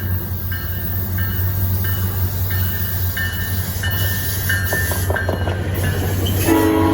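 Train running with a steady low rumble and a short high tone repeating about twice a second; a horn-like chord sounds near the end.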